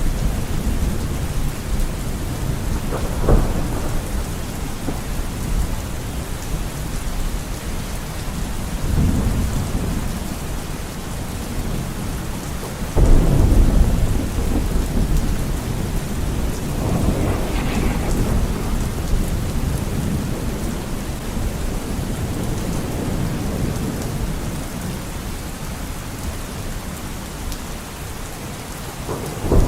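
Steady heavy rain with rolling thunder rumbling, and a sudden loud clap of thunder about halfway through.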